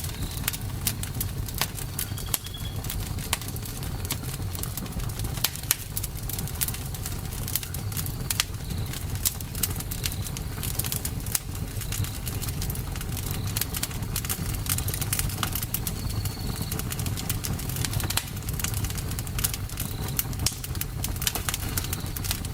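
Campfire burning: irregular crackles and pops of the wood over a steady low rumble of the flames, with a few faint short high chirps now and then.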